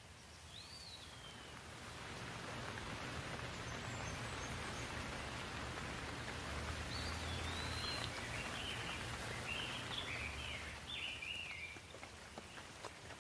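Rain falling in a steady wash that builds over the first couple of seconds and eases near the end, with songbirds whistling short rising-and-falling phrases, most of them in the second half.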